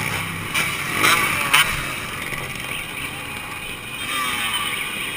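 Two-stroke motorcycle engines running and revving, with three sharp cracks in the first two seconds.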